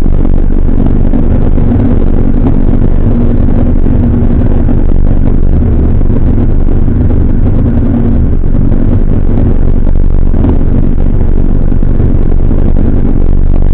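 Jowett Jupiter's flat-four engine running steadily at cruising speed, under a loud, even low rumble of the car on the move.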